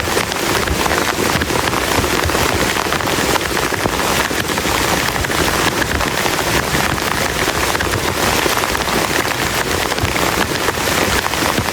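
Heavy rain falling steadily on a plastic tarp shelter: a dense, unbroken patter of drops.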